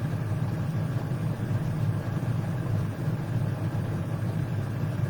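A steady low mechanical hum, running without change.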